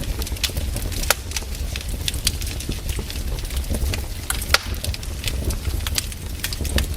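Wood fire burning in a fireplace: irregular sharp crackles and pops over a steady low rumble of the flames, with louder pops about a second in and about four and a half seconds in.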